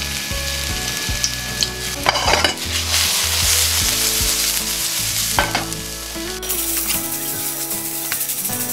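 Minced garlic sizzling in hot oil in a wok, stirred and scraped across the pan with a wooden spatula.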